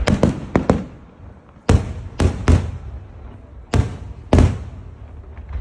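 Aerial firework shells bursting in the sky: about nine sharp bangs, several close together in the first second, then more near two and four seconds in, each with a short echoing tail.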